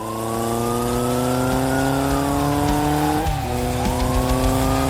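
Motorcycle engine accelerating hard, its pitch climbing steadily, dropping at a gear change about three seconds in, then climbing again.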